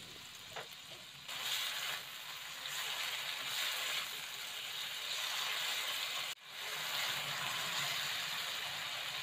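Diced tomatoes, garlic and ginger sizzling in hot oil in a wok as they are stirred. The sizzle steps up a little after about a second and cuts out for a moment about six seconds in.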